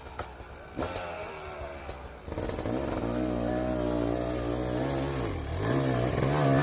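Snow bike's dirt bike engine revving, faint for the first two seconds, then much louder and growing louder still, with a brief drop in revs about five seconds in.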